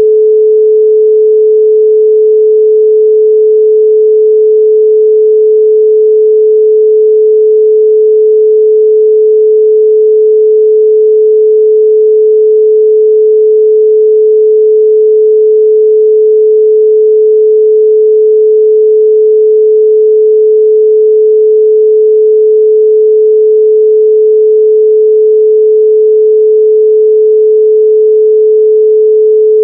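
A pure 432 Hz sine tone, a single steady pitch held unchanged and loud.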